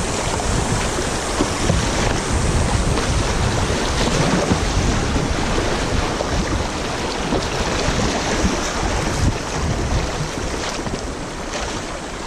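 Loud rushing river water as a kayak runs a shallow, rocky riffle, with wind buffeting the microphone; the low rumble eases near the end.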